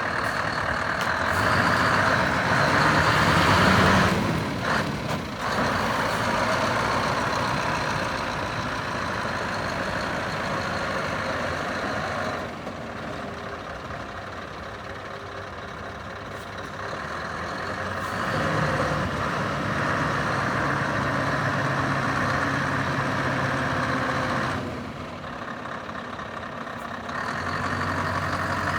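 Scania R560's V8 diesel engine running, its pitch climbing in the first few seconds and then settling into alternating higher and lower stretches of engine speed.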